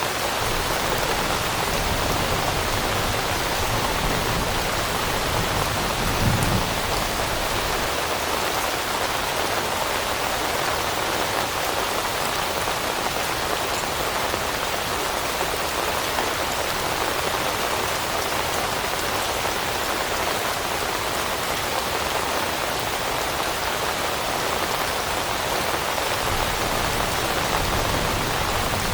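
Steady rain falling on leaves, an even hiss of dense drops with a brief low rumble about six seconds in.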